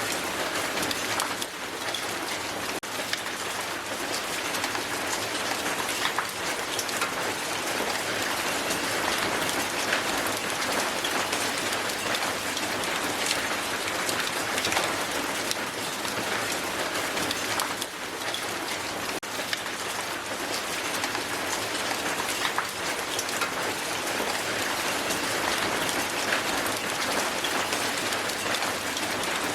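Hail falling hard and steadily onto the ground, a dense, even patter of countless small impacts with no letup.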